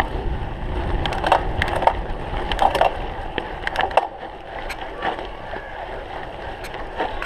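Cyclocross bike clattering and rattling over rough ground, a run of sharp knocks and clicks, with wind rumble on the microphone that eases about four seconds in.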